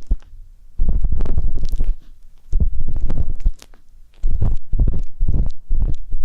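Ear-pick tip scraping and rubbing against an ASMR microphone's ear, giving loud, close rumbling and crackling. It comes in three strokes with short pauses between, starting about one, two and a half and four seconds in.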